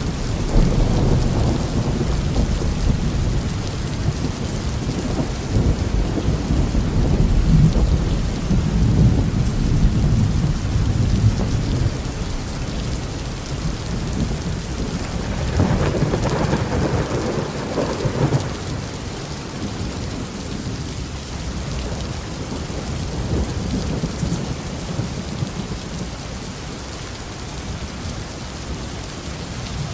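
Heavy rain falling steadily on a roof, with deep rolling thunder that rumbles through the first half and swells again about halfway through.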